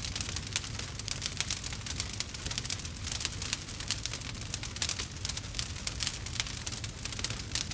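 Campfire crackling: many small, sharp, irregular pops and snaps over a steady low rumble.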